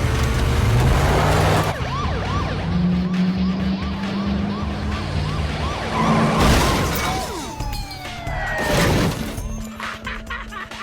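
Action-movie car chase soundtrack: a police siren yelping in quick rising chirps and sliding in pitch, with three loud crashing surges as a car smashes into police cars, over music.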